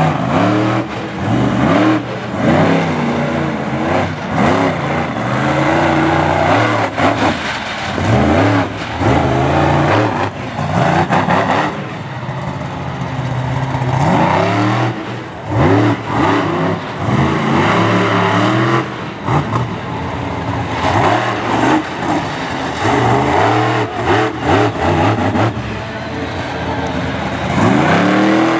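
Monster truck engine revving hard over and over, its pitch swinging up and down in quick surges, with a few sharp knocks between the revs.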